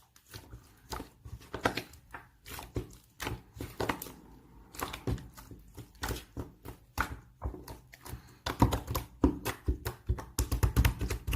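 Irregular knocks, taps and rustling, as of objects being handled, growing busier and louder in the last few seconds.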